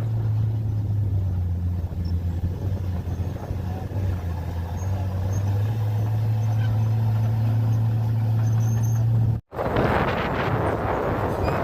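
Bulldozer diesel engine running with a steady, deep hum. About nine seconds in, an abrupt cut brings in a rougher, noisier machine sound.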